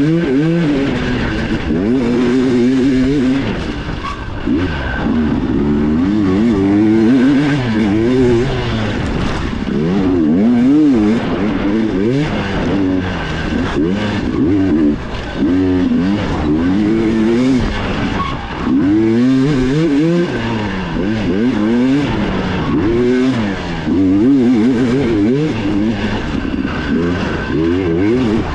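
Dirt bike engine revving hard up and down as the rider races a trail, its pitch climbing and dropping every second or two through throttle changes and shifts.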